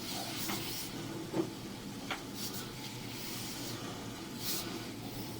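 Sewer inspection camera and its push cable being fed through a drain line: a steady low rumble and hiss with two light knocks about a second and a half and two seconds in.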